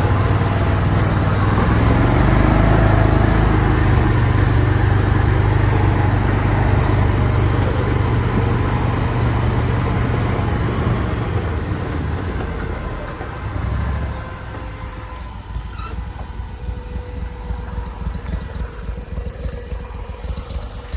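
Argo amphibious ATV's engine running steadily under way, then easing off about twelve seconds in and settling to a quieter idle.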